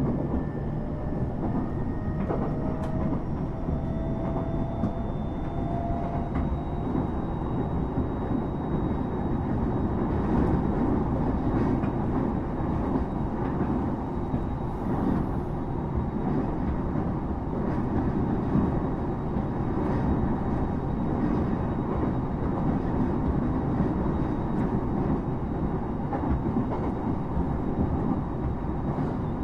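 Electric passenger train heard from inside the carriage while running, a steady rumble of wheels on the rails. A faint thin tone rises slightly in pitch over the first several seconds.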